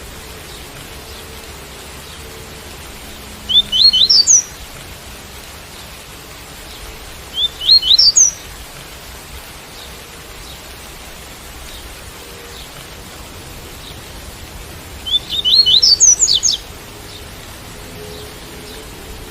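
Double-collared seedeater (coleiro) singing its 'tui-tui' song: three short phrases of quick, high rising notes, about four seconds in, about eight seconds in and near sixteen seconds, over a steady hiss of rain.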